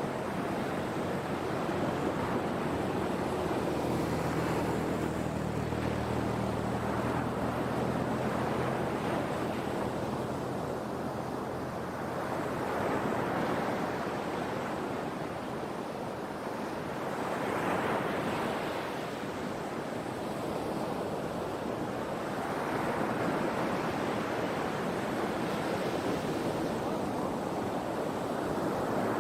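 Sea waves washing onto the shore, swelling and fading in irregular surges every few seconds. A faint low hum sits underneath for several seconds early on.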